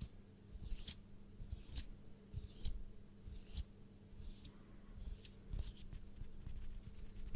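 Close-miked ASMR trigger sounds: short, soft swishes about once a second, turning into a run of fine quick clicks near the end.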